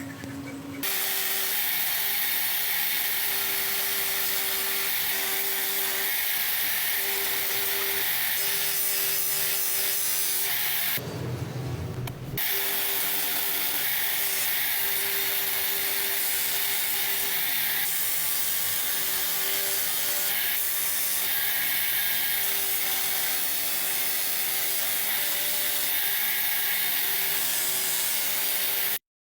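A power tool working against a surface, a steady hiss with a faint motor hum under it. It is broken by a short change about eleven seconds in and cuts off abruptly near the end.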